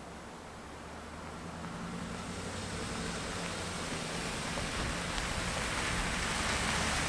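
Rain falling, a steady rushing hiss that grows gradually louder, with a few faint drop ticks.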